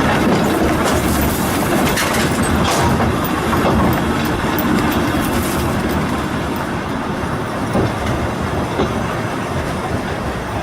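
Volk's Electric Railway car running on its track, the wheels clattering along the rails with a few sharp clicks. The noise grows a little quieter toward the end.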